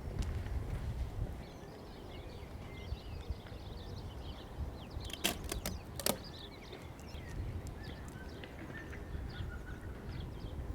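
Outdoor ambience: birds chirping over a steady low rumble, with a few sharp clicks about five to six seconds in.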